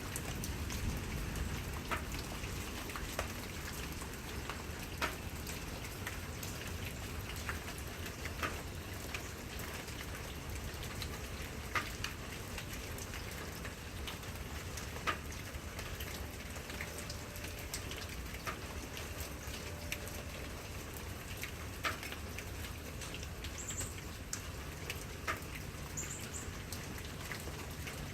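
Steady rain falling, with individual drops ticking sharply and irregularly about once a second on a nearby surface. Two faint high chirps sound near the end.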